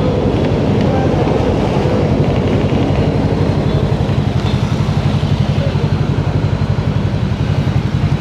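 Motorcycle engine running steadily with an even, rapid pulsing beat and no change in pitch.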